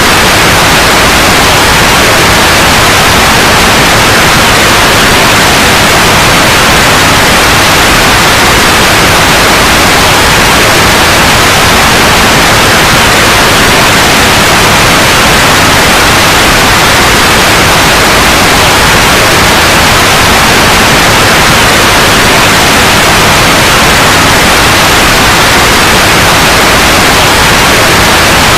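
Loud, steady white noise: an even hiss across the whole range, with no change.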